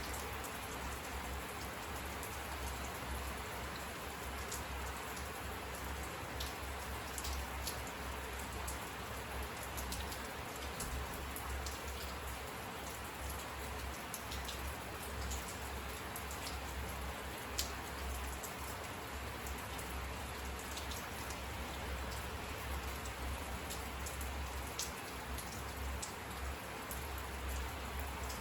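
Steady rain falling, with individual drops ticking sharply close by and a low, wavering rumble underneath.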